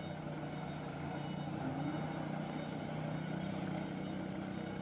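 Diesel engine of a light truck running steadily.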